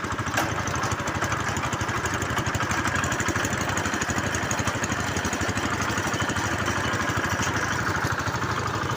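Engine of a bore well drilling machine running steadily with a rapid, even pulsing; a single sharp click about half a second in.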